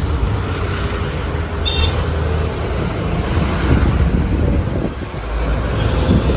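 Steady low rumble of a motor vehicle on the road, with a brief high-pitched tone a little under two seconds in.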